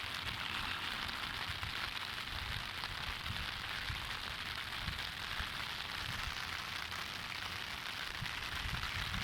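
Steady rushing hiss of a river running high in typhoon flood, with irregular low thumps of wind buffeting the microphone.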